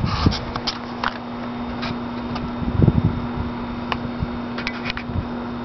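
Air-conditioning blower running in a truck cab: a steady fan hum with one constant tone in it, broken by scattered light clicks and a few soft knocks about three seconds in.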